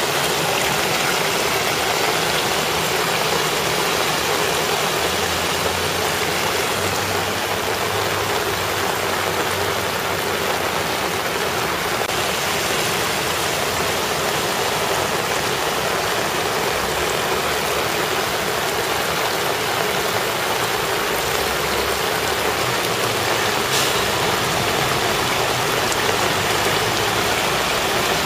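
Steady rush of heavy rain and floodwater over a flooded street. Car engines pass now and then, their tyres splashing through the deep water.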